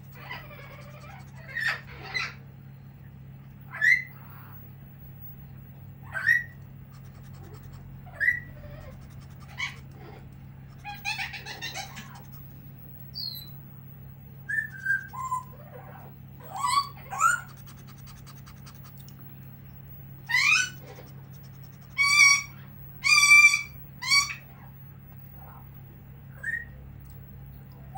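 A pet bird giving short, loud calls and whistles, one every second or two, many bending up in pitch, with a close run of the loudest calls about three-quarters of the way through.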